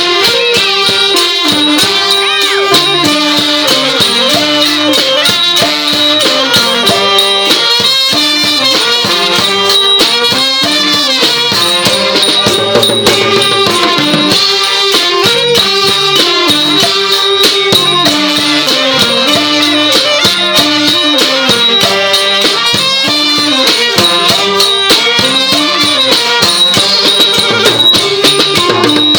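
Thai village brass band (trae wong) playing a stepwise melody over a steady beat of drums and cymbals.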